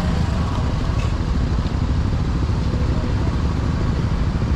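Honda SP125 motorcycle's 124 cc single-cylinder engine running steadily, a low, rough rumble at an even level.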